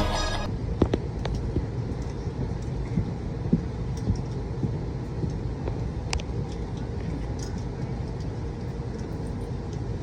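Background music cuts off about half a second in, leaving a steady low rumble with scattered light clicks and knocks.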